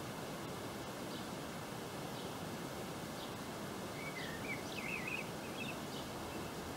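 Outdoor ambience of steady hiss with a small bird chirping: faint short chirps about once a second, and a quick run of higher twittering notes about four seconds in.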